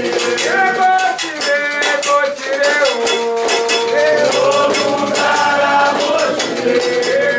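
Candomblé chant sung with held, gliding notes over a steady rhythm of struck bell and shaker percussion.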